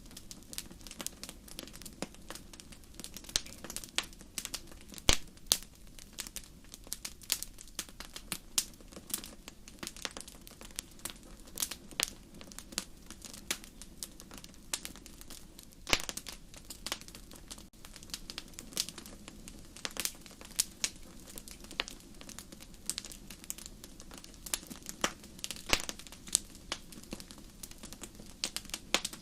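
Wood fire burning in a fireplace: irregular crackling with sharp pops, several a second and a few much louder, over a soft steady background.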